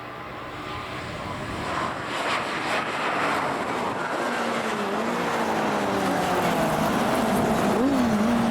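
Pre-1966 classic touring car engines at racing speed, growing louder as the cars approach. The engine notes rise and fall in pitch, with a quick drop and rise near the end, as from a gear change.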